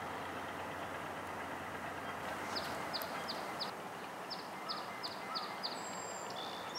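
A distant diesel-hauled freight train gives a steady low rumble. Over it a songbird sings two quick runs of repeated down-slurred whistled notes, four and then five, starting a little before halfway through.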